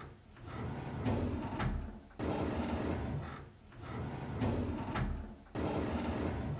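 A drawer sliding open again and again, a rumbling slide that starts abruptly and tapers off, repeating about every three seconds.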